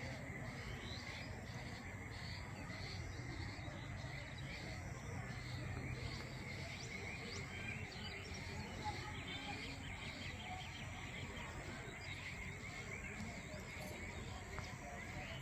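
Rural outdoor ambience: a steady insect drone with many short, repeated chirps above it and a low background rumble.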